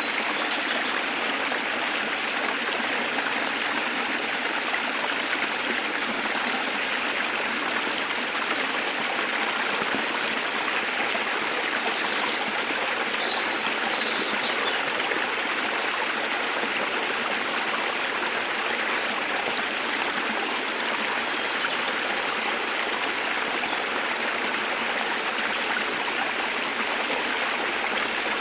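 Waterfall and stream water rushing in a steady, even wash. A few faint, short bird chirps sound high above it, about six seconds in, around the middle and again later.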